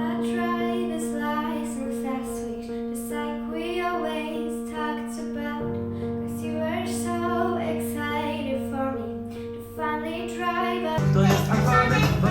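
A female voice singing a melody over a held keyboard chord. About eleven seconds in, a fuller, louder accompaniment comes in.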